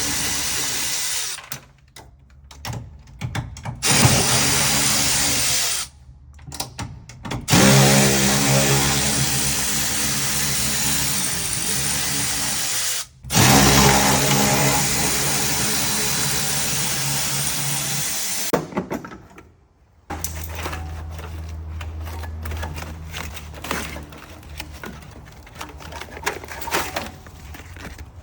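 Handheld power tool working on the car body, run in bursts of several seconds that stop briefly about 1.5, 6 and 13 seconds in. From about 20 seconds in it gives way to a quieter, steady low hum with light ticks.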